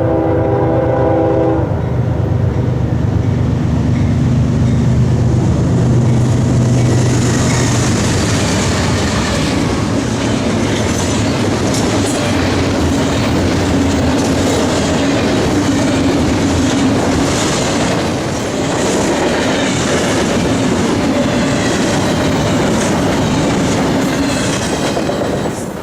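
A CSX freight train passing close by: the locomotive horn ends about two seconds in, the diesel locomotives rumble past, and then the freight cars roll by with steady clickety-clack of wheels over the rail joints. It cuts off suddenly at the end.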